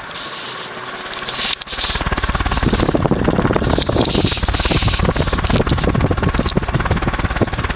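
Air thrown by a Windward (TAT) 36-inch industrial ceiling fan running on high, buffeting the microphone as a loud, ragged rumbling flutter. It sets in after a click about a second and a half in, over the fan's steady running.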